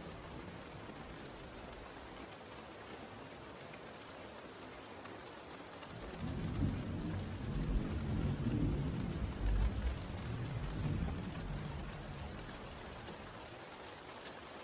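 Steady rain falling, with a low rumble of thunder that swells about six seconds in and fades away some six seconds later.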